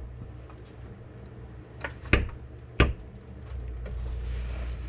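A few sharp metallic clicks and knocks while the transmission is being jacked up, the two loudest about two and three seconds in, then a low steady hum from about three and a half seconds in.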